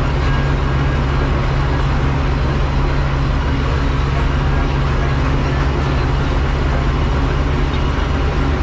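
A vehicle engine running steadily under way, a constant low drone with road noise.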